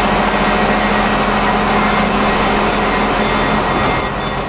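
Train running, heard from on board: a steady loud rumble and running noise with a constant hum, which eases a little near the end.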